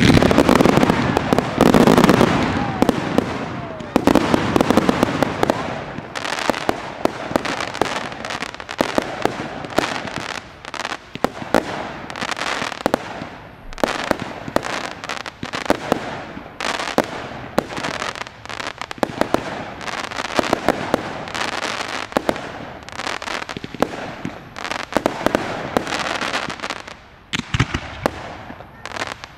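Fireworks display: a rapid volley of bangs from aerial shells, loudest in the first two seconds, then a continuous run of pops and crackling from bursting stars.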